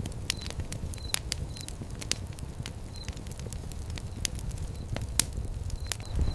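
Wood fire in a fire pit crackling, with irregular sharp pops over a low steady rumble of flame. Short high chirps come and go in small groups.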